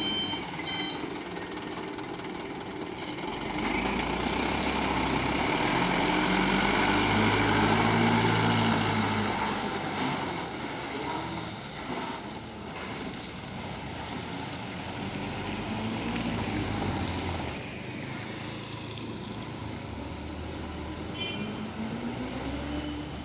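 Heavy truck engines working under load, revving up and falling back several times, loudest near the middle. A reversing beeper is sounding at the start and beeps again briefly near the end.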